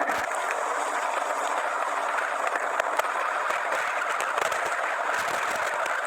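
An anar, a flower-pot fountain firework, burning with a steady hiss and fine crackle.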